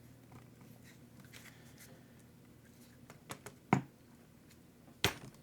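Sharp taps and clicks of tools and small parts being worked on an RC truck: a cluster of three a little past halfway, the last one the loudest, then two more knocks near the end, over a low steady hum.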